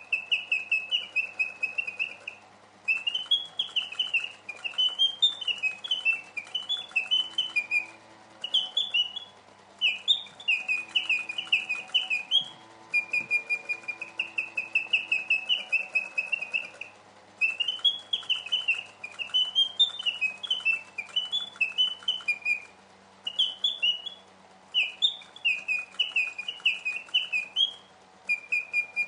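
A 1950s German Eschle two-bird singing automaton, its mechanical whistles chirping and warbling in rapid trills. The song comes in phrases of a few seconds, separated by short pauses.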